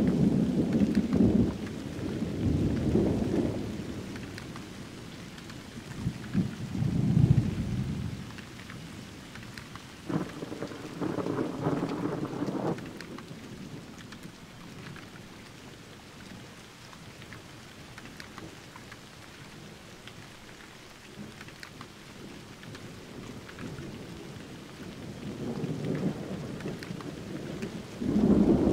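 Thunderstorm: steady rain with rolls of low thunder rumbling in and out. Rumbles come at the start, twice more in the first half (the loudest about a quarter of the way in), and again near the end, with only rain in between.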